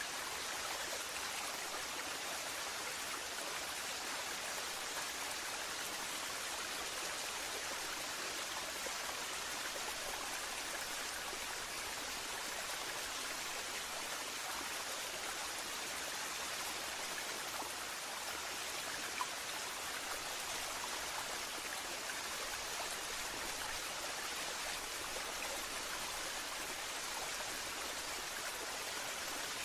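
Waterfall: a steady, unbroken rush of falling water, an even hiss that sits mostly in the mid and high range with little deep rumble.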